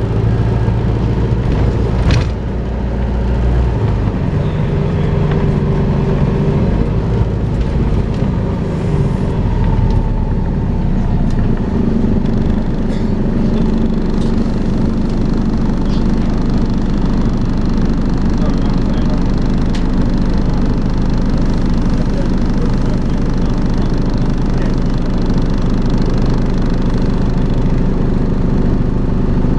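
Volvo B5LH hybrid double-decker bus running steadily with the vacuum-cleaner-like drone that enthusiasts call 'hoovering'. A sharp click about two seconds in.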